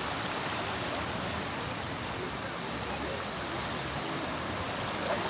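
Steady rushing of water, an even hiss with no distinct events.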